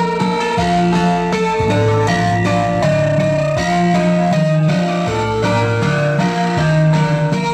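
Loud music played through a parade sound system: a plucked-string melody over sustained bass notes that change about once a second.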